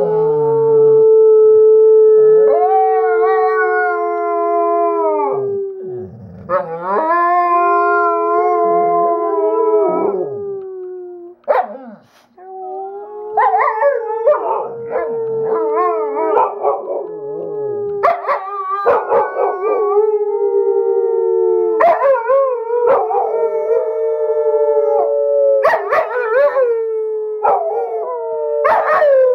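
Two pit bulls, a blue-nose and a tri-colour, howling together in long drawn-out howls with overlapping pitches. There is a short break a little before halfway, after which the howls come choppier, broken by many short sharp yips.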